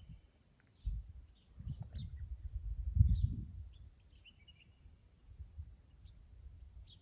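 Outdoor ambience of high chirping repeated every fraction of a second, from a small animal. Low rumbling thumps at the microphone come and go, loudest about three seconds in.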